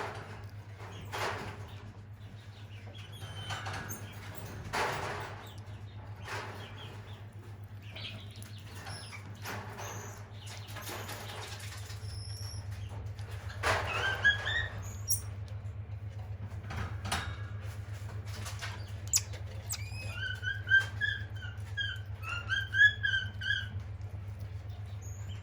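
Short, repeated high chirping calls from small animals, coming in quick runs in the second half, over scattered rustling and a steady low hum.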